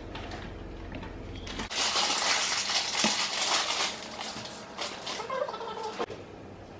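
Kitchen food-prep handling noise: a few seconds of dense crunching, scraping and clicking, with a few clinks, starting about two seconds in and stopping abruptly near the end.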